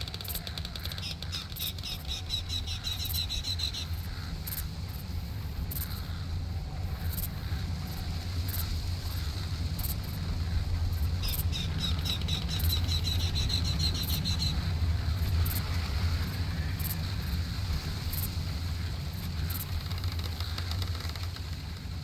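Songbird singing a fast trill of repeated high notes that speeds up and rises slightly in pitch, heard twice about ten seconds apart, over a steady low rumble.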